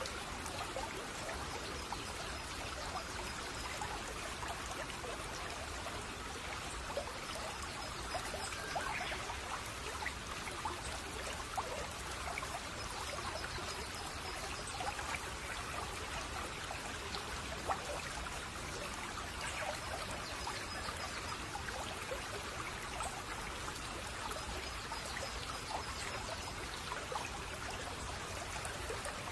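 Shallow stream babbling and trickling steadily, with faint high birdsong trills recurring every few seconds.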